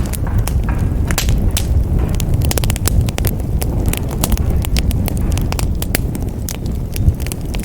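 Wood fire burning in a fireplace: many sharp, irregular crackles and pops over a steady low rumble of flames.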